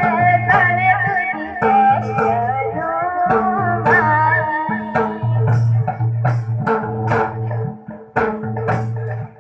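Young girl singing a folk song over dholak, khanjri and chimta, with a steady low accompanying note. The voice drops out about halfway through and the percussion keeps a steady beat on its own.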